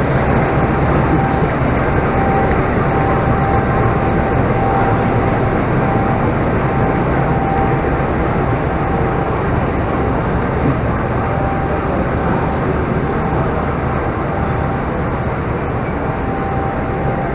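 A standing diesel passenger train's machinery running steadily: a low drone with a thin steady whine above it.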